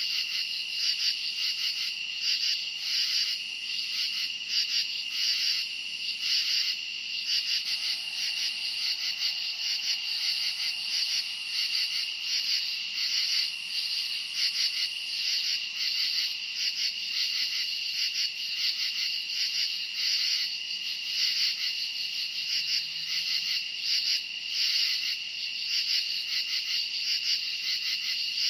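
Dense summer-night chorus of crickets chirping: a steady, high chirring that pulses about twice a second.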